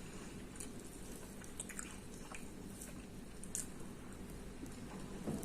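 A person chewing food close to the microphone: scattered faint, wet mouth clicks and squelches over a low steady hum.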